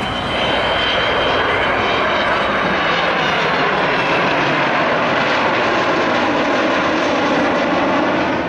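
Avro Vulcan bomber's four Rolls-Royce Olympus turbojets heard on a low-level flypast: a loud, steady jet noise that swells about half a second in. Its pitch falls slowly as the aircraft passes.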